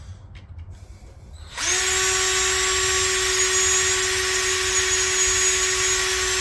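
Electric drill starting about a second and a half in and then running at a steady speed, drilling out a stripped water pump bolt hole in a Honda B18 engine block, stepping the hole up toward a 15/64-inch bit before tapping.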